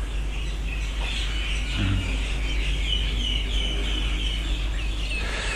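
Birds chirping in a quick run of short, high notes, over a steady low rumble.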